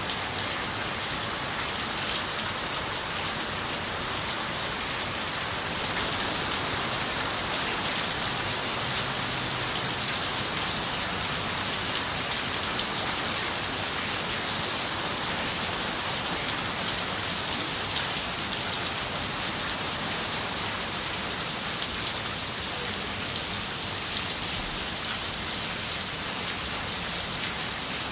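Steady rain falling on a window, an even dense hiss with a few sharper single drop ticks, growing slightly heavier about six seconds in.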